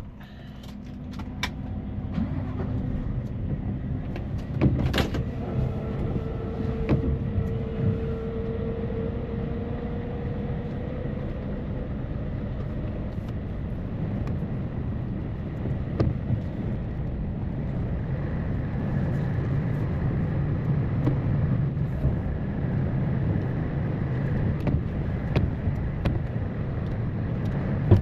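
Truck's diesel engine and road noise heard from inside the cab as it moves slowly, a steady low rumble. A few sharp clicks come in the first two seconds and another about five seconds in.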